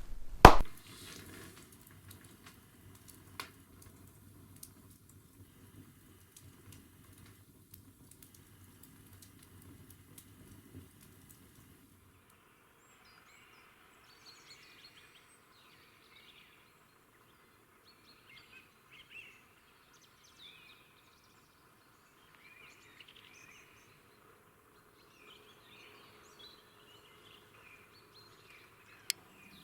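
Faint songbirds chirping and calling in short, scattered phrases, typical of early-morning birdsong. This follows a sharp click about half a second in and a stretch of faint low hum with occasional ticks.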